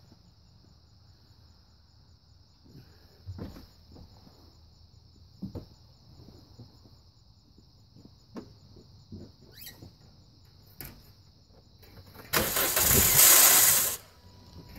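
A few soft knocks and clicks, then about twelve seconds in the car's engine is cranked and starts on the newly installed battery, a loud burst lasting about a second and a half. Crickets chirp steadily throughout.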